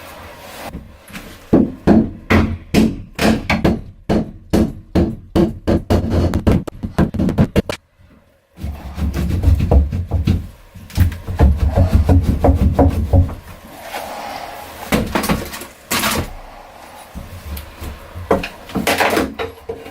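Repeated hard knocks on wood, about two or three a second for several seconds. After a brief break come low rumbling and more scattered knocks and thumps.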